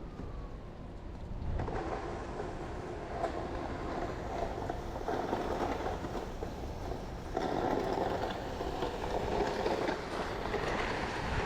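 Steady rumble of a motor vehicle, its engine and tyre noise growing louder about a second and a half in and swelling again later.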